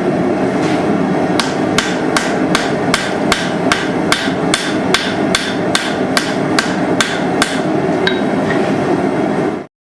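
Hammer blows on steel in a blacksmith's forging: a run of evenly spaced strikes, about two and a half a second, over a steady rushing noise. The blows stop after a few seconds, and the sound cuts out abruptly near the end.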